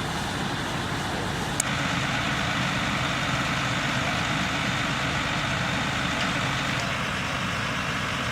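Steady engine noise of a large vehicle idling, with a single sharp click about one and a half seconds in.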